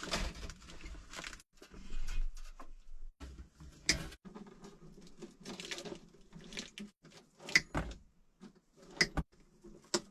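Hand work with iron wire: several sharp clicks of wire being snipped with pliers or cutters, among rustling and handling noise.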